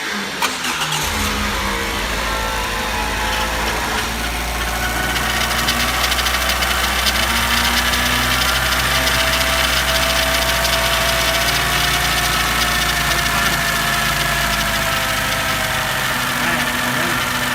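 Ford Fusion's 2.3-litre Duratec four-cylinder engine cranked and starting, catching within about a second and settling into a steady, even idle. It is the first start after the timing was reset, and it runs normally, no longer rough and racing as it did before the repair.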